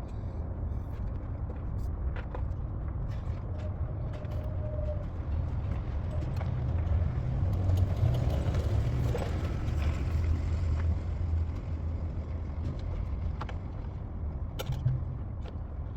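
A 2017 Toyota Highlander's 3.5-litre V6 running: a steady low rumble that swells for a few seconds halfway through, with a few light clicks.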